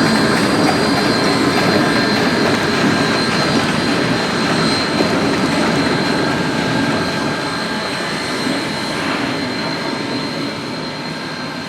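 Geared steam logging locomotive working past, a steady rush of steam and exhaust with a thin high whine over it, gradually fading as it moves away.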